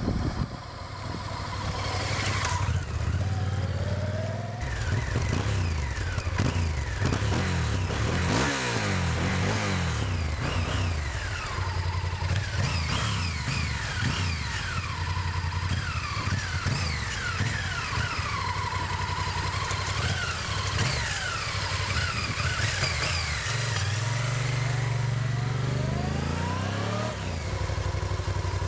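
Honda Varadero motorcycle's V-twin engine revving and pulling through the gears, its pitch repeatedly rising and falling. Near the end it settles to a steady idle, then is blipped up again.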